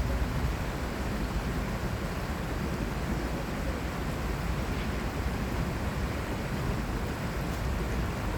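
Steady rushing of the stream's flowing water, with a low rumble underneath.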